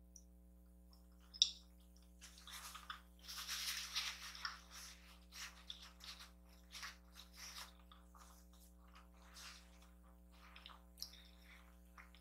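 Faint close-miked eating: chewing a mouthful of kimchi noodles, with wet squishing and smacking mouth sounds and a sharp click about a second and a half in.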